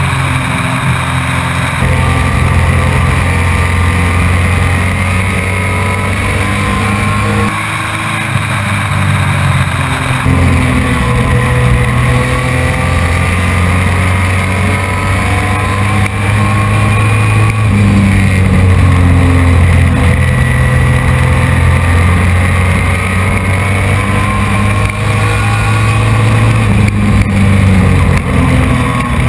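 Race truck engine at racing speed, heard from the onboard camera inside the truck. Its revs climb and drop back again and again as it runs the laps.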